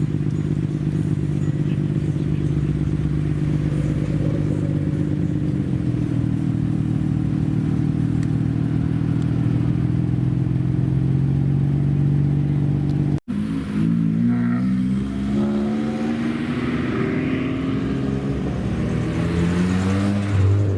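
Modified car engines: one runs steadily at low revs with a deep, even rumble, then after a cut about 13 seconds in another engine revs, its pitch rising and falling.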